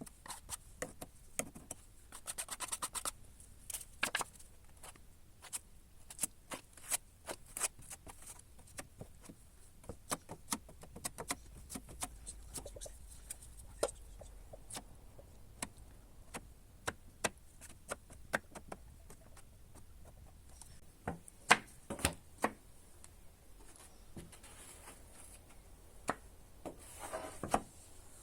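Scattered light clicks, taps and rubbing of hand work with tools and parts, at irregular intervals, with two sharper knocks a little past the middle.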